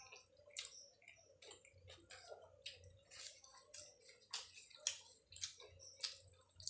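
Eating sounds: wet chewing and lip smacks as luchi with aloo dum is eaten by hand, a string of faint, irregular soft clicks and smacks.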